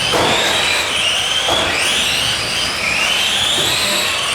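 Several Tamiya Euro Truck radio-controlled racing trucks running, their electric motors giving high whines that rise and fall and overlap as the trucks accelerate and slow. There are harsher noisy spells at the start and about a second and a half in.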